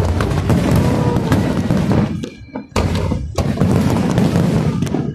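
Fireworks display: aerial shells bursting in rapid succession, sharp bangs over a continuous rumbling boom, with a brief falling whistle about a second in. The bangs let up briefly twice, about two seconds in and near the end.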